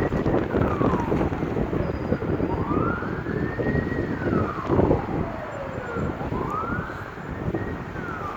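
Emergency vehicle siren in a slow wail, rising and falling about three times, over a loud low rumble of wind buffeting the microphone.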